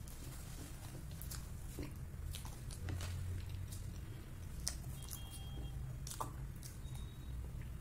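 Close-up mouth sounds of someone chewing a soft soboro bun with whipped-cream filling: scattered wet clicks and smacks over a low steady hum.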